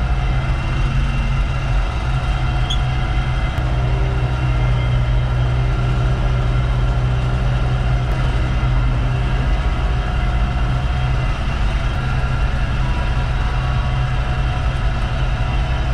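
Engine of a makeshift farm forklift running steadily at a constant speed, with a deep even drone while it moves a load.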